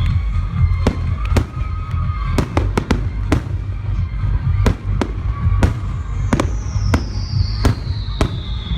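Fireworks going off: a rapid, irregular series of sharp bangs and crackles over a constant low rumble. Whistles fall slowly in pitch, a long one in the second half.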